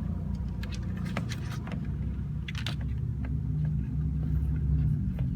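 Steady low rumble of a car, heard from inside the cabin, with scattered light clicks of a plastic clip and wiring being handled.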